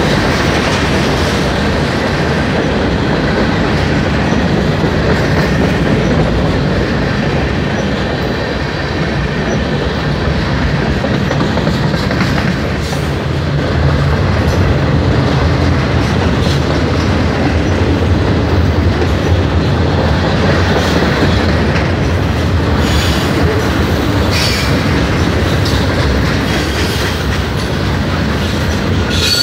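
Freight cars of a mixed manifest train rolling past at close range. A steady rumble of steel wheels on rail, with the clickety-clack of the wheels over rail joints.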